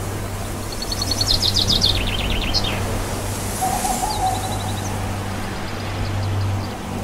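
A songbird singing a rapid trill of repeated notes that steps down in pitch and ends in a quick downward flourish, then a short high trill about two seconds later, over a steady low hum.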